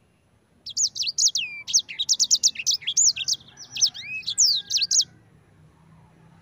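Sanger songbird singing a rapid run of high chirps and trilled notes, starting under a second in and stopping about five seconds in.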